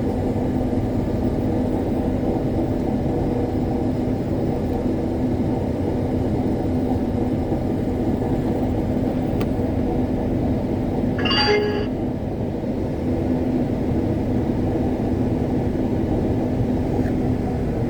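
Combine harvester running steadily while it unloads grain through its auger into a grain cart, a constant droning hum. About eleven and a half seconds in, a brief higher-pitched sound rises over it.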